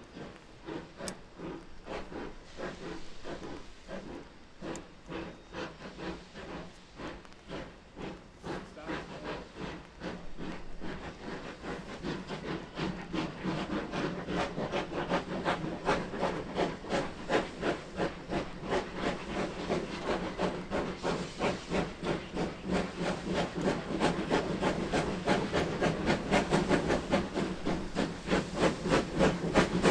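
Steam locomotive working under steam, its exhaust beating in an even rhythm of chuffs that grow steadily louder as it approaches.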